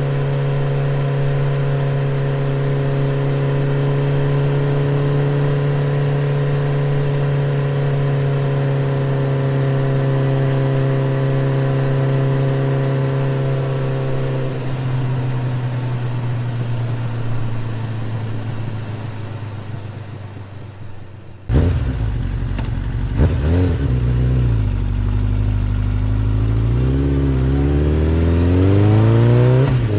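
A small motor running with a steady hum, then slowly fading. About two-thirds of the way through it starts again abruptly, its pitch rising and falling as it speeds up and slows down.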